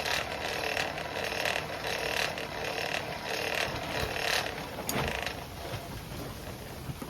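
Forge blower turning with a rhythmic whirring swell about every two-thirds of a second, air feeding the coal fire while a chain link heats for welding. The pulsing stops about five seconds in, just after a single click.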